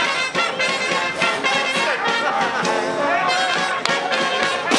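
Brass band playing, trumpets and trombones carrying the tune over regular drum beats.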